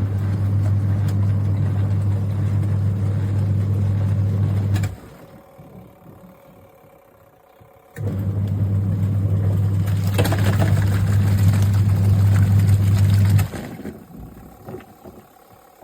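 Twin-tub washing machine's wash motor running with a steady low hum. It stops for about three seconds in the middle and again near the end as the wash timer pauses between agitation runs.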